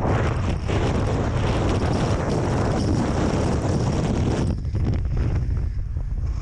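Wind buffeting the microphone, with a heavy low rumble throughout and a loud hiss that drops away about four and a half seconds in.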